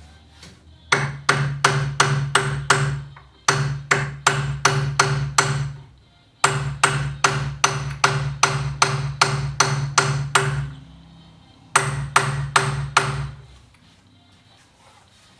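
Hammer striking a punch in quick ringing blows, about four a second, in four runs with short pauses between them. The blows raise notches in the Husqvarna 240 chainsaw's bearing seat so that the bearing will not spin in it.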